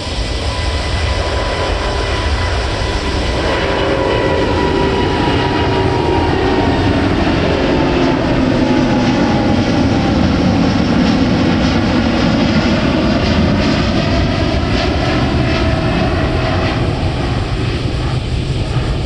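Jet airliner passing low and close, its engine noise rushing steadily, with whining tones that slide slowly down in pitch as it goes by, loudest around the middle.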